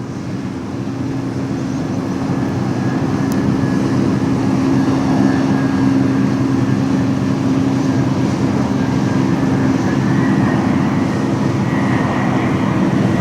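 Airbus A320-214's CFM56 turbofan engines, growing louder over the first few seconds as the jet comes closer, then holding steady. Under a low drone there is a thin whine that climbs a little near the end.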